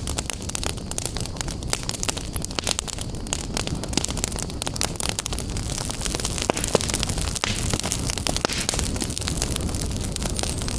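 Fire burning in a fireplace, crackling with dense, irregular sharp pops over a steady low rumble.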